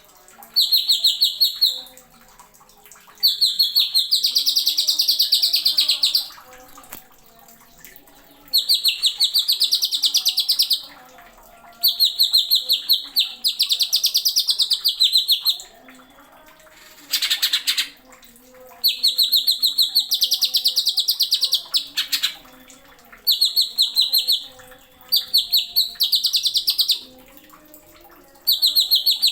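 Greater green leafbird (cucak ijo) singing loud, rapid-fire stuttering trill phrases of one to three seconds each, with short pauses between them.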